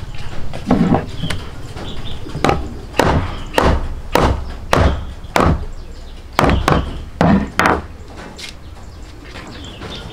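A series of about a dozen sharp knocks or blows, roughly two a second, with a short pause midway.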